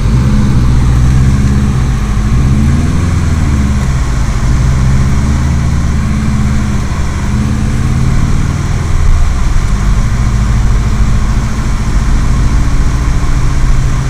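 Subaru WRX STi's turbocharged flat-four engine heard from inside the cabin as the car drives through snow, its note rising and falling a few times a few seconds in, then holding steady over a constant rushing road noise.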